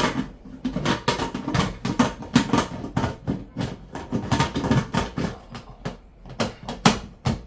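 Kitchen clatter of a metal pot and utensils: a steady run of irregular knocks and clinks as a pressure cooker is handled and made ready.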